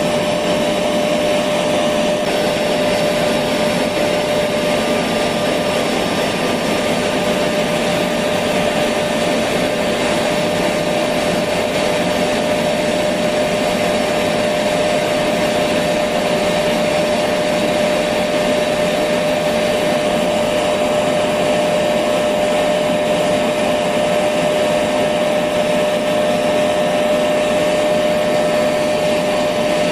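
Electric vacuum cleaner running steadily: an even rushing noise with a constant whine that never changes.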